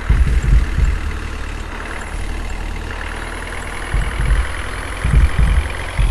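Heavy engine of a truck or crane running at low revs, a steady low rumble with a few heavier surges about four and five seconds in.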